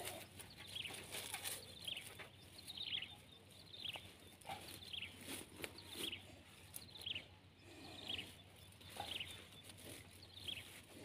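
A bird calling over and over, one short falling chirp about once a second, with faint rustling of a plastic mesh bag being handled.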